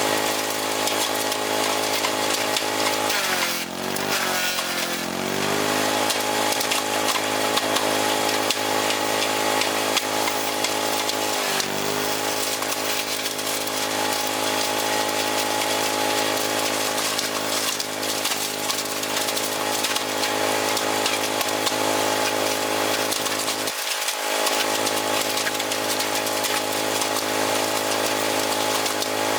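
Wood chipper's engine running steadily at high speed. About three and a half seconds in its pitch sags under load and recovers over a couple of seconds, with a shorter dip a little after eleven seconds.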